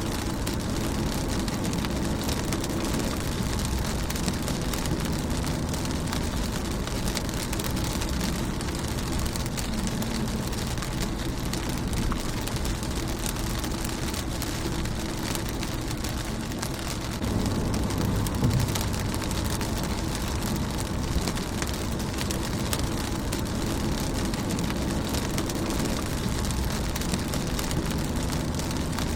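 Rain falling on a car's windscreen, a steady dense patter of many small drop impacts. A low rumble swells briefly about two-thirds of the way through.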